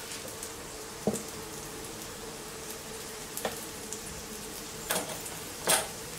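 Puran poli frying in ghee in a nonstick pan as it puffs up: a steady low sizzle over a faint steady hum, broken by four sudden clicks, the loudest near the end.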